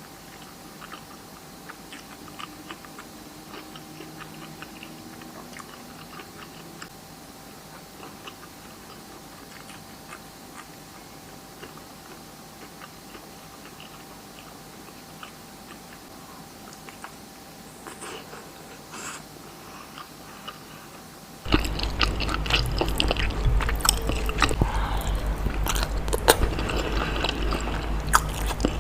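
Close-miked ASMR eating: a person chewing telur balado (boiled eggs in chili sauce), with soft wet mouth clicks and a faint steady hum at first. About three-quarters of the way in it switches abruptly to much louder, closer chewing and biting with a heavy low rumble.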